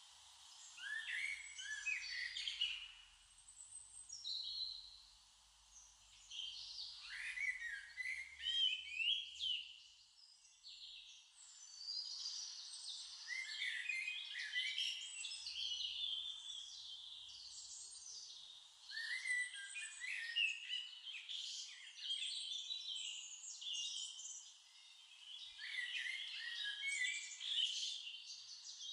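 Small birds chirping and twittering: many quick, overlapping calls in bursts, with short lulls between them.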